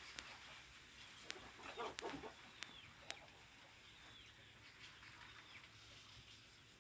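Hen laying on the nest, giving a few low clucks about two seconds in, with several sharp clicks scattered through the first half; faint overall.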